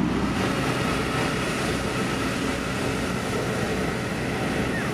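Heavy road-construction machine's diesel engine running steadily.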